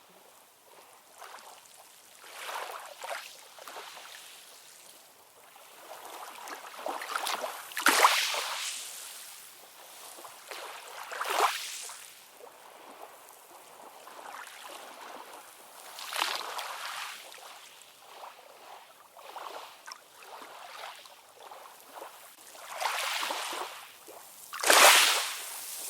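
Ocean waves washing in, a hiss that swells and fades every few seconds, with the loudest surges about a third of the way in and near the end.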